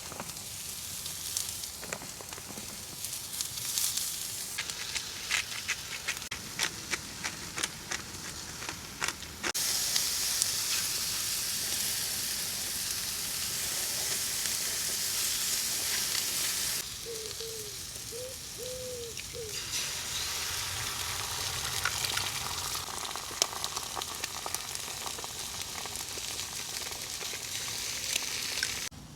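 Breakfast food frying and sizzling in a pan, with crackling pops. The sizzle jumps abruptly in level and tone a few times.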